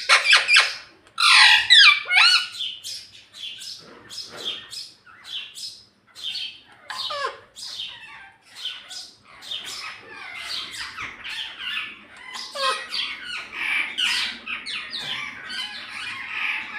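Indian ringneck parakeet squawking and chattering: a long string of short, high-pitched calls, loudest in the first two seconds, then quieter and more rapid.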